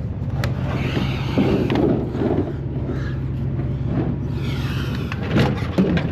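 Vehicle engine idling with a steady low hum, with several sharp knocks and clatter over it, loudest near the end.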